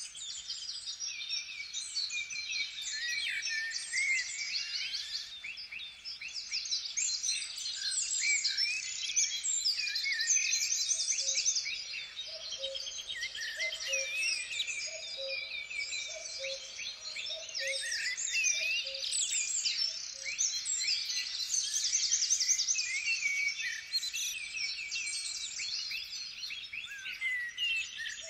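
A dense chorus of songbirds, many overlapping high chirps, trills and whistled phrases. From about twelve seconds in, a soft low two-note pattern repeats roughly once a second under the birdsong.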